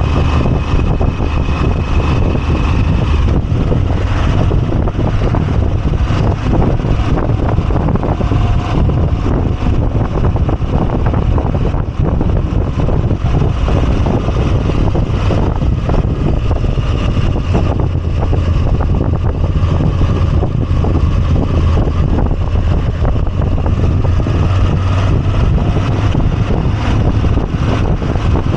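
Moto Guzzi V85TT's air-cooled transverse V-twin engine running steadily under way, heard from the moving motorcycle with road and wind noise.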